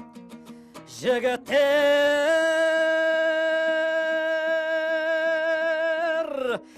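A man singing a Kazakh folk song, holding one long note for about five seconds: it wavers at the start, steps up in pitch, then falls away near the end. Quick strummed plucked strings come before the note, in the first second.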